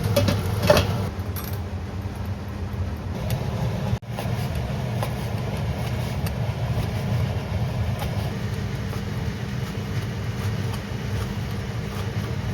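Steady low mechanical hum, with a few sharp clinks in the first second and a brief break about four seconds in.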